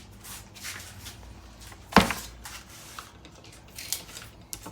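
Handling noises from work on a roller-door motor, with one sharp knock about two seconds in and a few lighter clicks after it.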